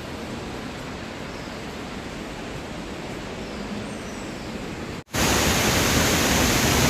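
Steady rushing roar of a waterfall. About five seconds in, it cuts out for an instant and comes back much louder.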